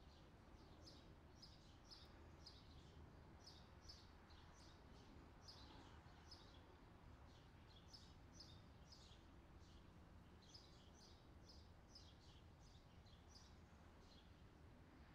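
Near silence with faint, quick small-bird chirps repeating a few times a second over a low steady hum.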